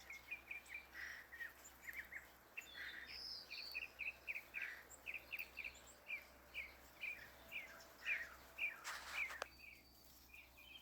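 Backyard songbirds chirping: a long run of short, repeated chirps, two or three a second. A brief rustle or hiss about nine seconds in.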